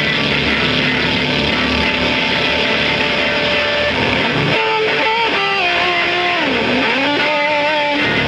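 Loud, distorted guitar-driven noise music: a dense wash of sound, then from about halfway a held guitar note that bends down in pitch and back up over it.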